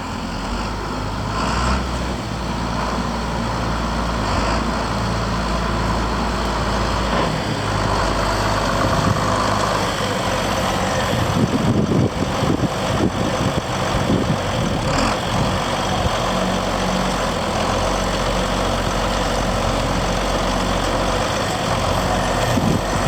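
John Deere 4630 tractor's turbocharged six-cylinder diesel engine running steadily, its note turning rougher and more uneven for a few seconds midway.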